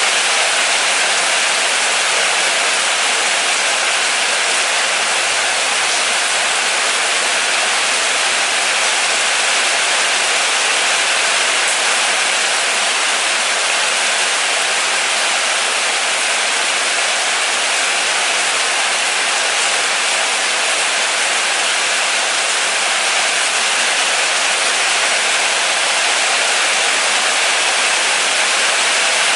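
Steady, moderate rain falling, a dense even hiss with no let-up.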